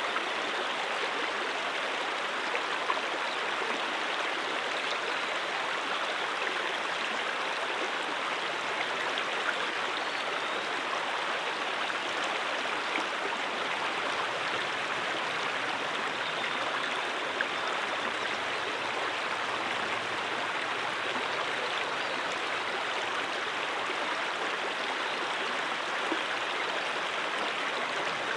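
Stream water running steadily over rocks, an even rushing with now and then a small louder splash.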